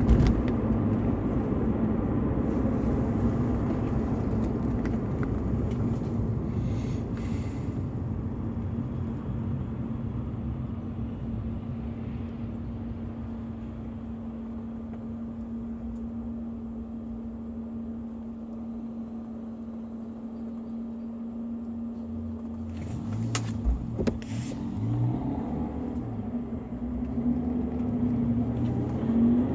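BMW E46 320i's 2.0-litre M52TU inline-six running steadily, its level slowly easing off. A few sharp clicks come near the end, then the engine note rises as it picks up revs.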